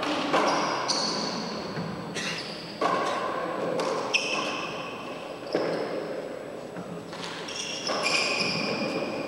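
Handball rally in a four-wall court: a rubber handball is struck by hand and rebounds off the walls and floor. There are about seven sharp smacks at uneven gaps of half a second to two seconds, each ringing briefly in the enclosed court.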